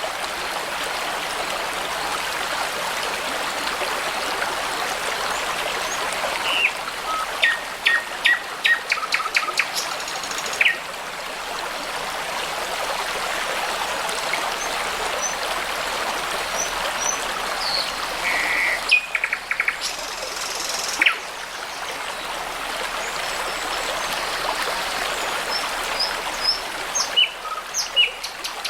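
Babbling brook running steadily, with songbirds calling over it: a run of quick repeated notes about a quarter of the way in, then scattered short chirps, more of them near the end.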